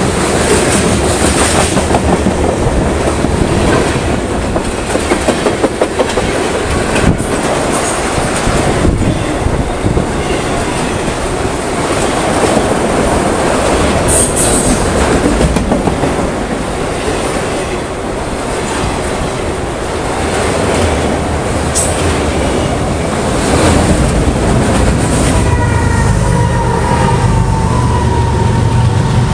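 Freight train of covered hopper and autorack cars passing close at speed: a steady loud rumble of steel wheels on rail with a run of clickety-clack over the rail joints.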